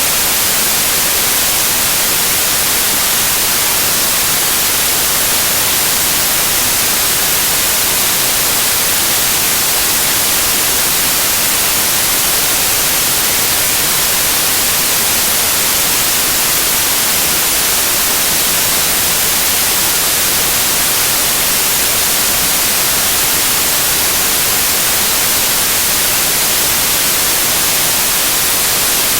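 Loud, steady white noise: an even hiss that is strongest in the treble and does not change.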